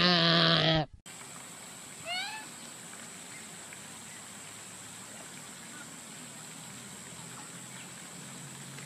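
A long, loud animal call held on one slightly wavering pitch, cutting off about a second in. After it comes steady faint outdoor background hiss, with a quick run of bird chirps falling in pitch about two seconds in.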